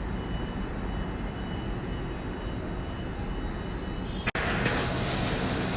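Steady rumble of a train running in the station, with a faint high whine over it. About four seconds in the sound drops out for an instant and a louder, hissier steady station noise takes over.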